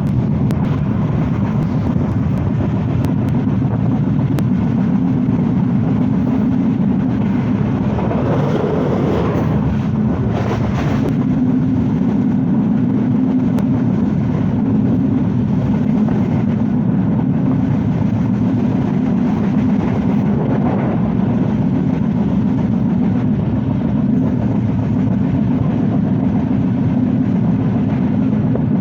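Passenger train running at speed: a steady, loud rumble of wheels on the track, with a brief rise in hiss about eight to eleven seconds in.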